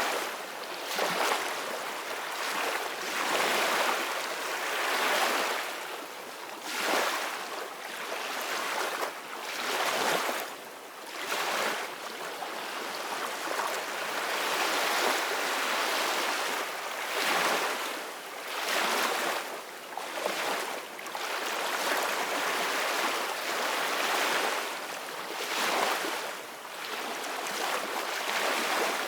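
Ocean waves breaking on the shore, a continuous rush of surf that swells and falls back every second or few.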